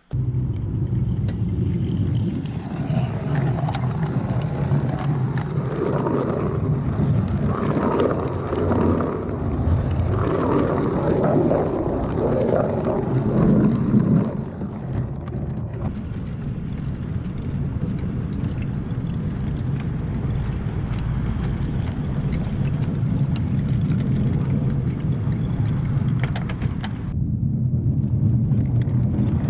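A 7¼-inch gauge miniature train running along its track, with a steady low hum throughout.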